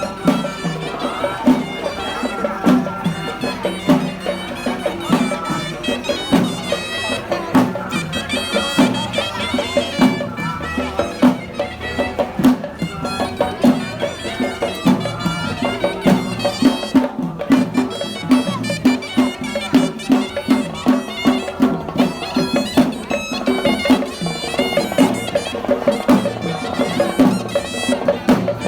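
Traditional Sri Lankan music: a shrill, reedy wind instrument plays a melody over a steady drum beat.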